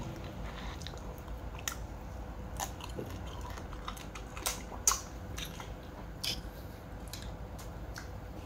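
Person eating crab, chewing, with scattered small crunches and clicks.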